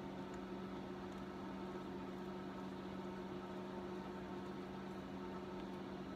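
Steady electrical hum over a faint hiss, the background tone of a small shop, with no distinct tool sounds.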